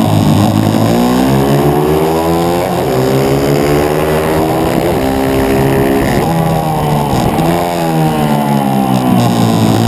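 A 140cc pit bike's single-cylinder four-stroke engine heard on board under race riding, revving up and down. Engine speed climbs over a few seconds, then falls sharply near 3 s and again near 7.5 s before climbing again.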